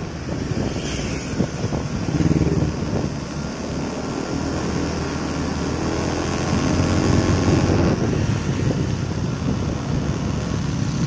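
Honda Vario automatic scooter's engine running as it is ridden, its note swelling about two seconds in and again around seven seconds.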